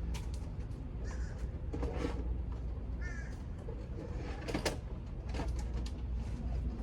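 Crows cawing a few short times, with scattered sharp knocks and a steady low rumble underneath.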